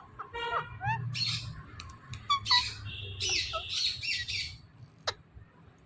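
Ringneck parrot squawking harshly twice, with short whistled chirps and clicks between the squawks.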